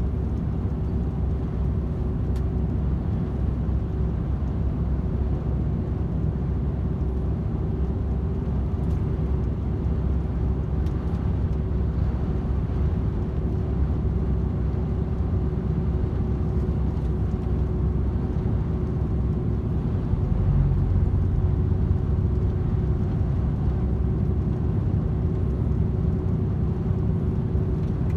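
DAF XF 510 truck's PACCAR MX-13 straight-six running at a steady cruise. Engine and road noise make a steady drone with an even hum over it. The low rumble swells briefly about twenty seconds in.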